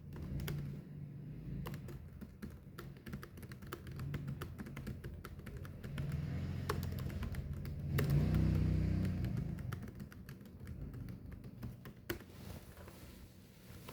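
Typing: quick, irregular key clicks run on throughout over a low steady hum, which swells about eight seconds in.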